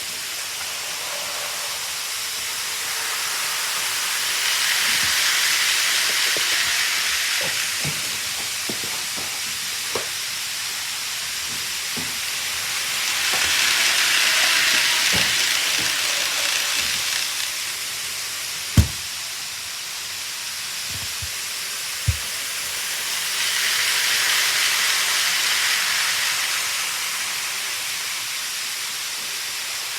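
Model train running round a layout: its hissing whirr swells and fades three times, about every ten seconds, as it passes close by on each lap, with scattered clicks of wheels over track joints, two sharper ones near the end.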